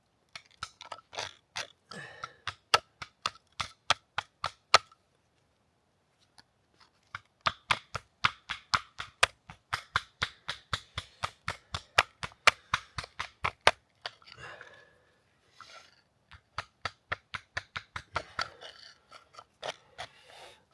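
The back end of a hip hatchet tapping a thin stone to knock chips off its edge in flint knapping: runs of sharp clicks, about three a second, with a pause of about two seconds near the middle.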